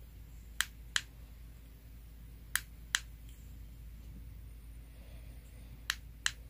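Push buttons on a ring light's inline controller being clicked: three pairs of sharp clicks, the two clicks of each pair about a third of a second apart.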